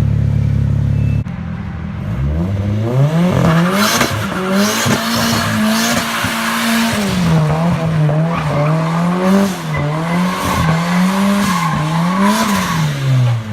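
Car drifting: the engine revs up over a few seconds, is held high with the throttle blipped up and down for several seconds, then drops back near the end, while the tyres squeal through the high-rev stretch.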